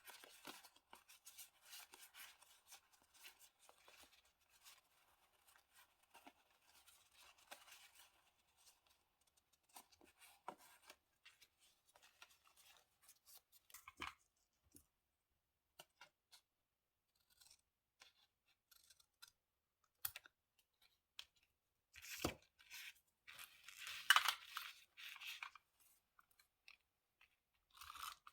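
Paper being handled, cut with scissors and torn for diary decorating: a dense crinkly rustle for the first several seconds, then scattered small clicks and snips. Near the end a sharp thump, followed by the loudest spell of paper crinkling.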